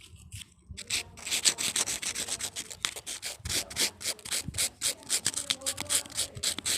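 Paper receipt being rubbed and crinkled in a fast run of short, scratchy strokes, several a second, starting about a second in.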